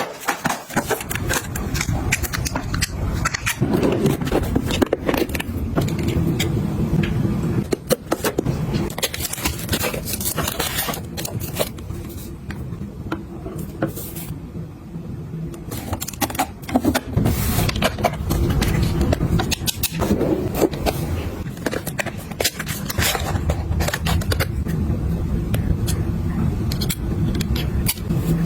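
Objects being handled and set down, with many quick clicks, knocks and scrapes over a steady low rumble.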